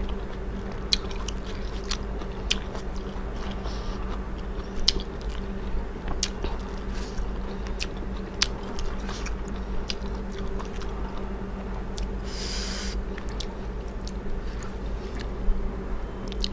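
A person chewing and biting food close to a clip-on microphone, with many short, sharp wet mouth clicks over a steady low hum. A brief hissing noise comes about three quarters of the way through.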